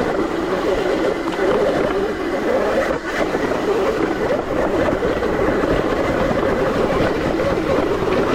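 ETM RTR electric dirt bike motor whining, its pitch rising and falling with the throttle, over a steady low rumble of wind and tyres on the dirt trail.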